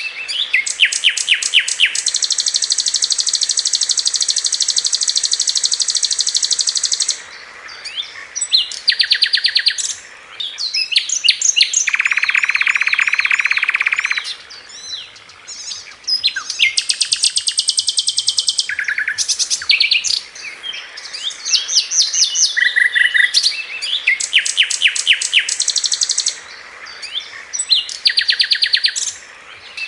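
Sikatan londo flycatcher song, as used for masteran training audio: rapid-fire bursts of sharp, high repeated notes alternating with long, even trills, with short pauses between phrases.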